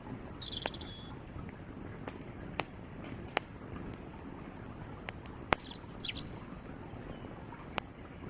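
Wood fire crackling, with sharp pops scattered irregularly over a steady rush of creek water. A bird chirps briefly about half a second in and again around six seconds in.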